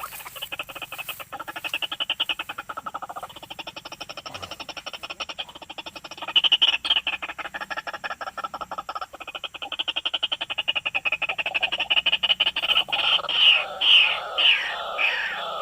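White-breasted waterhen (ruak-ruak) calling: a long run of fast, rattling, frog-like croaks that grows into louder, choppier repeated notes near the end.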